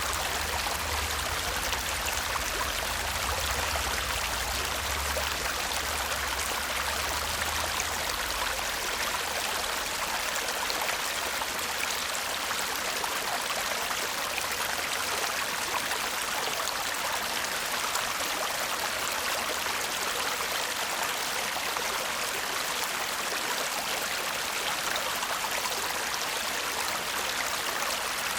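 Shallow stream babbling and murmuring over stones, a steady even rush of water. A low rumble under it in the first few seconds fades out about eight seconds in.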